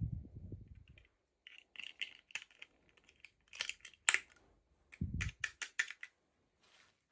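Small plastic toy pieces and packaging being handled: a soft thump, then runs of light clicks and taps, with a sharper click about four seconds in and another soft thump followed by a quick run of clicks.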